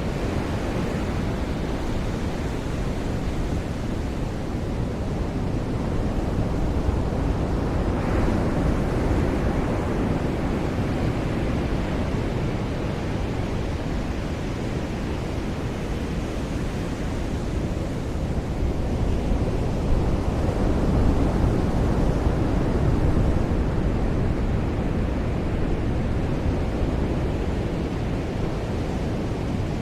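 Ocean surf washing onto a beach: a continuous rush of breaking waves that swells and eases slowly, with wind noise on the microphone.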